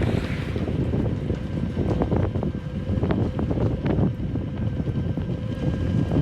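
Wind buffeting the microphone while riding an electric unicycle: a dense low rumble with a faint steady tone and scattered short knocks.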